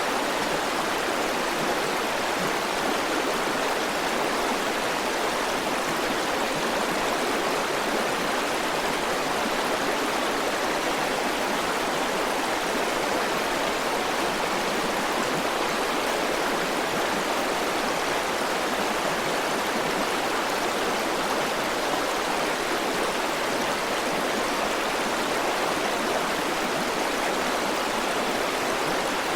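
A river's flowing water, a steady rushing with no change or break.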